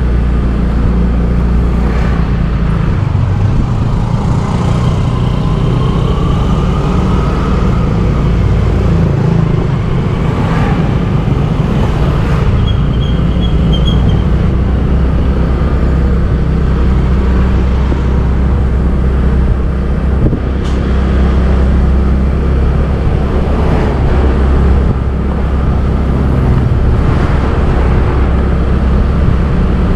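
Motorbike engine running steadily while riding, with the rumble of surrounding road traffic. About six seconds in, a passing engine rises in pitch, and a short high tone sounds about thirteen seconds in.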